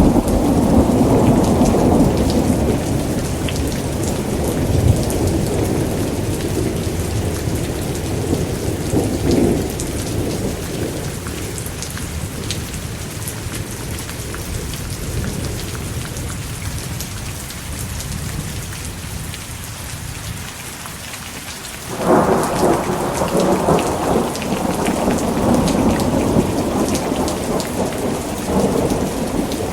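Thunderstorm: steady heavy rain with rolling thunder. A long, deep rumble dies away over the first twenty seconds, then a new thunderclap breaks in sharply about twenty-two seconds in and keeps rumbling.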